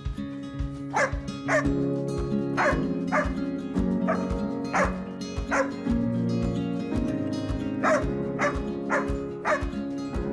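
A dog barking in short, sharp barks, each falling in pitch, about ten of them in irregular bursts, over background music.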